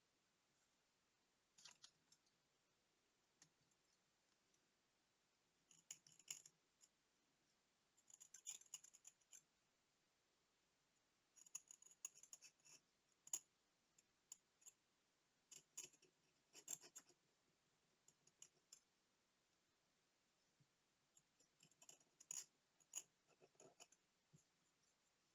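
Faint clusters of small clicks and scrapes from tools working on the small parts of a Soviet "Montana" digital watch, coming in short bursts every few seconds.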